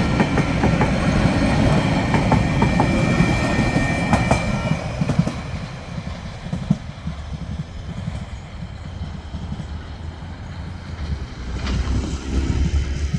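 Freight train wagons rolling past over a level crossing, wheels clicking over the rail joints with a thin high squeal, then fading to a low rumble about five seconds in. A low engine hum rises near the end.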